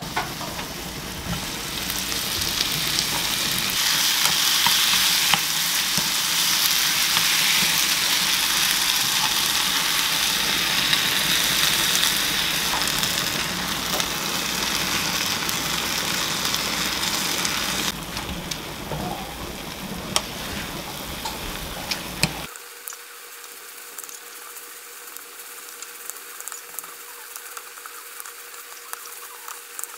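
Tomato and egg sizzling as they fry in a nonstick frying pan, with spinach stirred in; the sizzle is loudest in the first dozen seconds. It drops about 18 seconds in and again a few seconds later, leaving a quieter hiss with a few light clicks.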